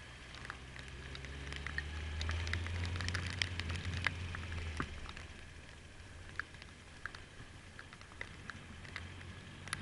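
Heavy rain: raindrops striking close to the microphone as many scattered, irregular sharp ticks. A low motorcycle engine hum swells over the first few seconds, then fades.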